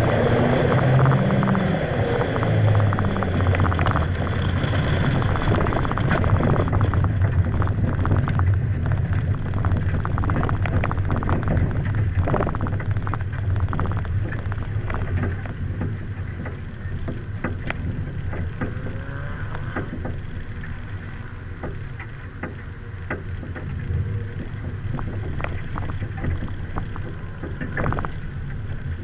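Mazda Miata's four-cylinder engine running, heard from the open cockpit. It is loud and working hard through the first half, then eases off to a quieter, lower-revving run as the car slows after the autocross run.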